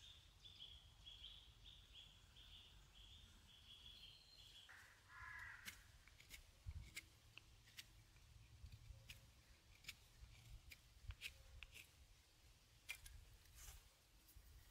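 Faint outdoor sounds: a bird gives a fast run of high chirps for about four and a half seconds, then a short, lower, harsher call. After that come scattered sharp clicks and snaps.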